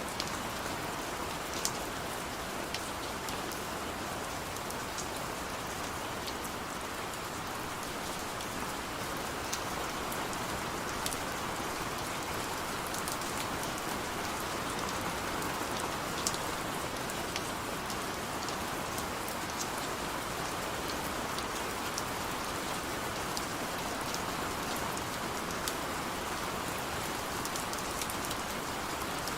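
Heavy rain falling steadily, a dense hiss of rain on a surface with scattered sharp ticks of individual drops.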